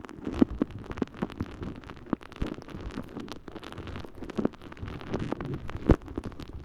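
Water-soaked sponge squishing and rubbing in a binaural microphone's ear canal, giving a dense, irregular wet crackle with sharp pops about half a second in and near six seconds.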